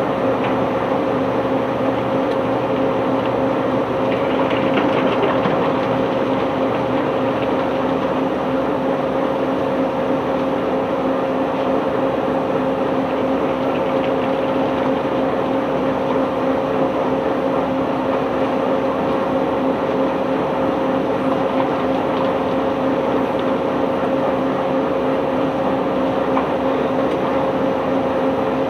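Heavy unloading machinery on a cargo barge running steadily, a constant engine-like hum with a noisy mechanical din underneath.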